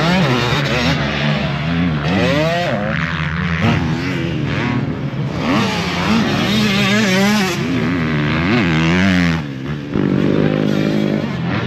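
Several motocross dirt bikes riding the track, their engines revving up and dropping again and again as the riders work the throttle and shift.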